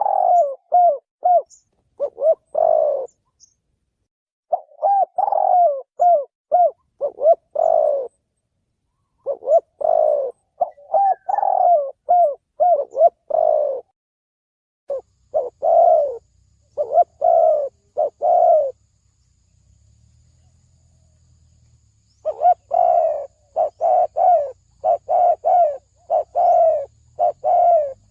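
Spotted dove cooing: bouts of several quick coos, each bout ending on a longer note, separated by short pauses, with a longer break about two-thirds of the way through.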